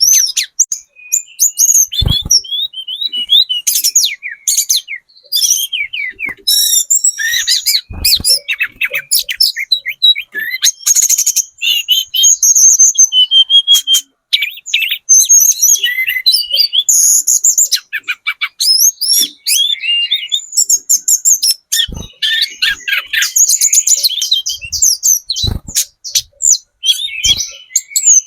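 Speckled young tledekan gunung singing: fast, varied twittering phrases, chirps and trills that run on almost without a break, high-pitched. A few short dull thumps break in now and then.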